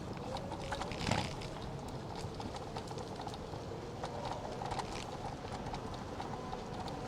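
Electric scooter rolling along a city street: a steady run of light clicks and rattles, with a faint steady whine underneath.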